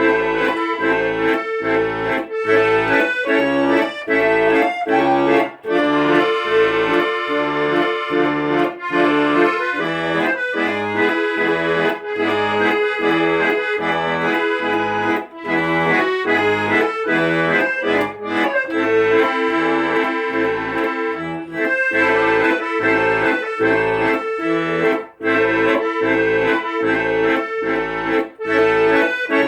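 Accordion playing a melody over a steady, even bass-and-chord accompaniment, about two beats a second.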